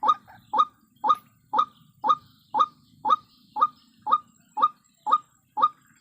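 White-breasted waterhen (ruak-ruak) calling: a steady series of short, clipped notes, about two a second.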